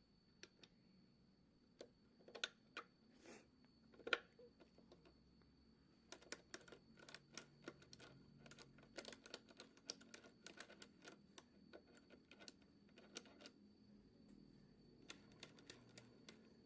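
Faint, irregular clicking and tapping of tools and small engine parts being handled, a few scattered clicks at first, then a dense run of quick clicks through the middle stretch.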